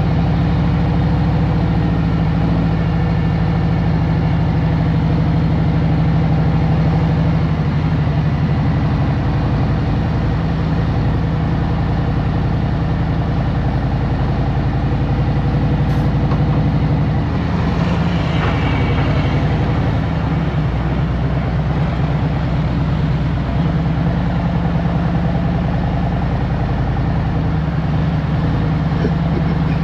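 2023 Harley-Davidson Road Glide Special's Milwaukee-Eight V-twin running at a steady, low engine speed in traffic, with a brief rush of noise about eighteen seconds in.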